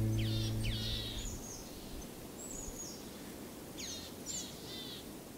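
Birds chirping over a soft outdoor hiss: a few quick sweeping chirps, a pair of high whistles, then another burst of chirps. A held music chord dies away in the first second.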